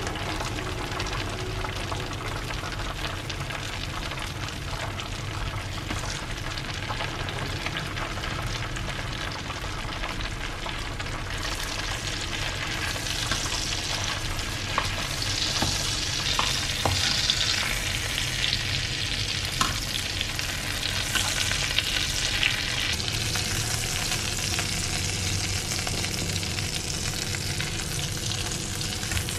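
Fried chicken drumsticks sizzling in hot pans as they are moved with metal tongs into a bubbling hot sauce mix. The sizzling grows louder and crackly about halfway through, with a few light clicks.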